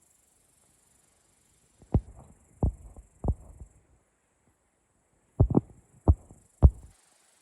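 A series of seven short low thumps in two groups of three and four, over a faint high hiss.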